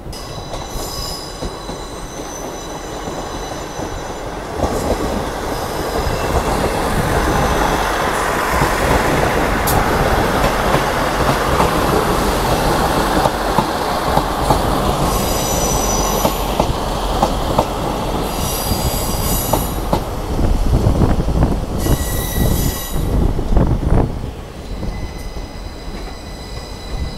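Train running on the rails with its wheels squealing: high-pitched squeals come and go in several short spells over a rumble that builds to its loudest midway. A run of sharp knocks follows from about three quarters of the way through.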